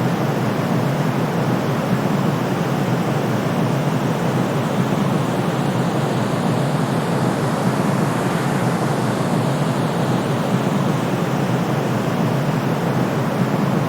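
Steady white noise for baby sleep: a continuous, even hiss that leans toward the low end and does not change.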